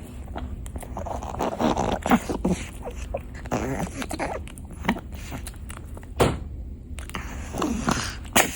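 A pet eating french fries: irregular chewing and crunching with short clicking mouth sounds.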